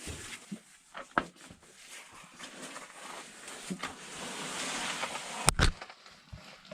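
A caver squeezing through a tight rock crack: heavy breathing with the scrape and knock of body and gear against the rock, and a sharp knock about five and a half seconds in.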